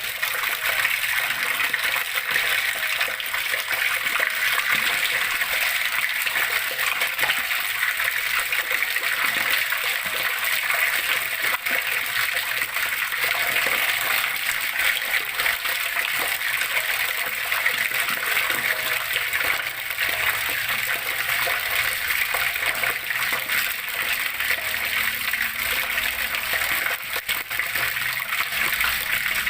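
Water flowing and splashing steadily: an even, continuous rushing hiss that sits mostly in the upper-middle range.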